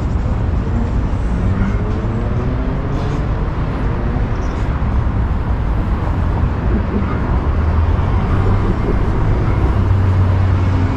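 City street traffic: vehicle engines running with a steady low rumble, one of them speeding up and rising in pitch during the first few seconds.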